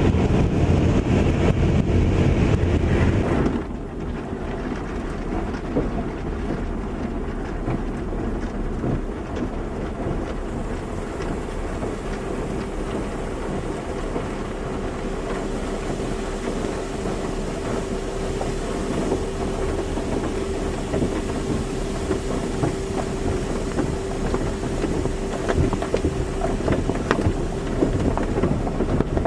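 Automatic car wash running: a loud rush of spray that drops off suddenly a few seconds in, then a quieter steady wash with a steady machine whine partway through, and water spattering more thickly near the end.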